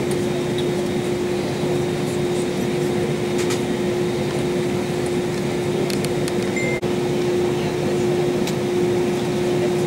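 Steady airliner cabin noise inside an Airbus A320: a constant rush of air with a steady hum through it, and a few faint clicks.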